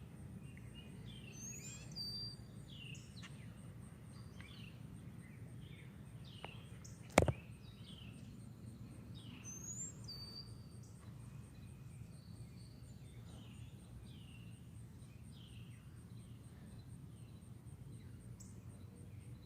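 Songbirds at feeders chirping with many short, falling chirps and a couple of high rising whistles, over a steady low background hum. A single sharp click about seven seconds in.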